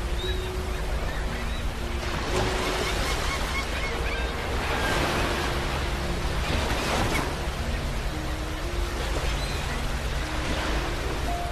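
Ocean waves breaking on a beach, a steady wash of surf that swells with each wave every two to three seconds. A soft, slow melody of low held notes plays underneath.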